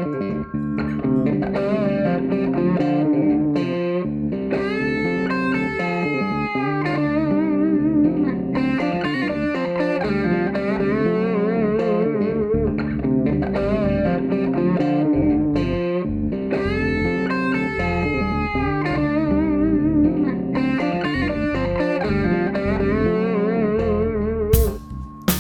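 Instrumental guitar music: layered plucked guitar notes with string bends and vibrato over a sustained lower part, with a few drum hits near the end.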